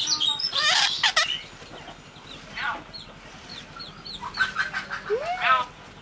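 Bird calls: a run of short chirps and squawks, some sweeping sharply up or down in pitch. They are loudest in the first second and again around five seconds in, with softer chirps between.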